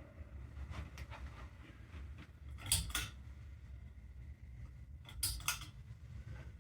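Ceiling fan running with a steady low hum, with a few sharp clicks: two close together about three seconds in and two more near the end.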